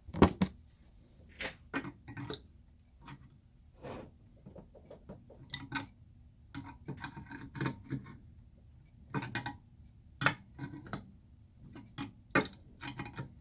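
Metal parts and hand tools being handled on a workbench: irregular clinks, clicks and knocks with short pauses between them, the sharpest knock just after the start.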